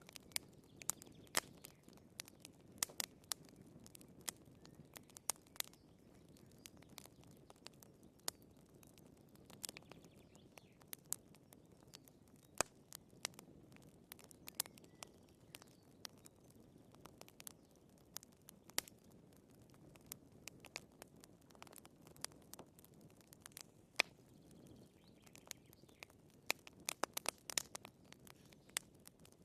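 Wood fire crackling in a fireplace: irregular sharp pops and snaps from the burning firewood over a soft low rumble of the flames, with a quick flurry of pops near the end.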